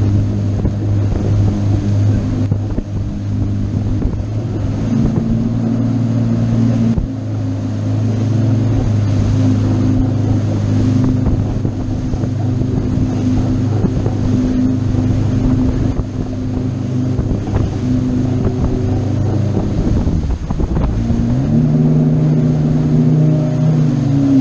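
Motorboat engine running steadily while underway, with wind on the microphone. About twenty seconds in the engine note drops out briefly and comes back at a slightly different pitch.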